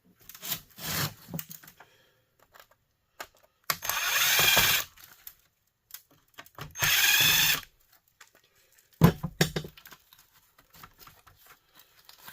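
Power drill-driver running in two bursts of about a second each, backing screws out of a small heater's casing and motor, followed by a few sharp clunks of metal parts being handled.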